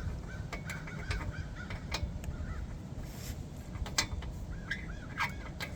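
Crows cawing in short runs of repeated calls, with a few sharp clicks or clinks over a steady low rumble.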